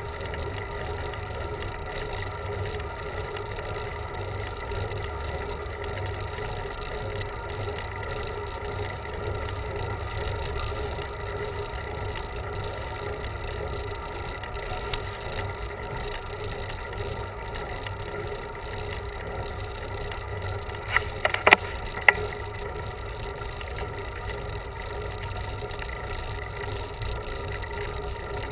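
Road bicycle riding uphill, heard as a steady low rumble of wind and tyre noise. A short cluster of sharp clicks comes about three-quarters of the way through.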